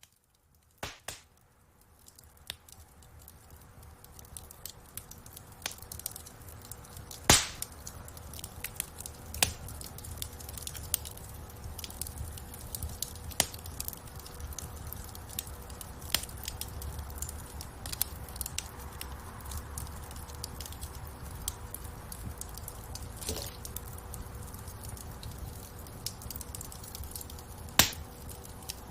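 Wood fire crackling in a fireplace: irregular sharp snaps and pops over a low, steady rumble of flames, with two louder pops, about seven seconds in and near the end. It fades in from silence over the first two seconds.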